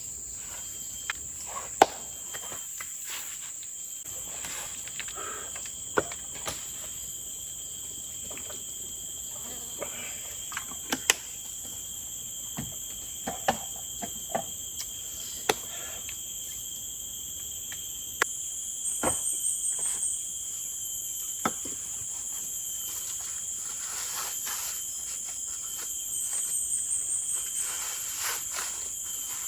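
Forest insects singing in a steady, high, unbroken drone. A second, pulsing insect call joins twice, about two-thirds of the way in and near the end. Scattered sharp clicks and light knocks are heard throughout.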